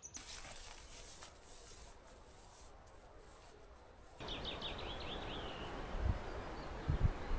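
A small songbird gives a quick run of about half a dozen short high notes, lasting a little over a second, about four seconds in. Before that there is only faint hiss, and a few low bumps come near the end.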